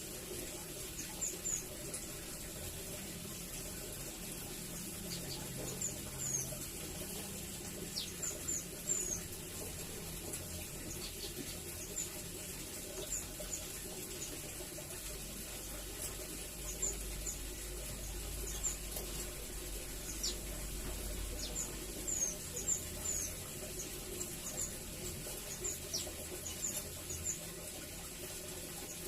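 Velvet-fronted nuthatch (rambatan) calling: short, very high, squeaky chirps, often in quick runs of two to four, scattered over a steady hiss.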